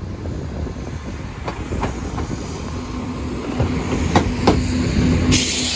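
Train running over the level crossing, its wheels clicking over rail joints in a few sharp knocks over a steady rumble, with a steady low hum joining about halfway through. A burst of hiss comes near the end.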